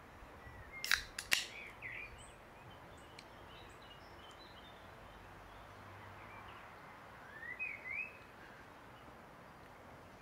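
Small birds chirping in short calls, once early and again about eight seconds in, over a faint steady outdoor background, with two sharp clicks about a second in.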